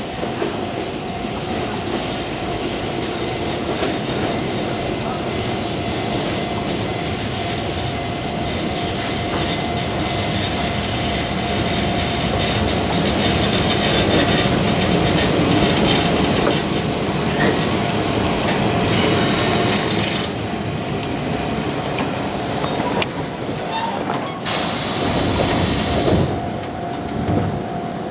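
Toyama Chiho Railway train running on the rails: electric car 60 pushing the broken-down car 30 as a rescue train. A high, steady squeal lasts through the first half and stops suddenly, and a shorter burst of it comes back near the end, over low running noise.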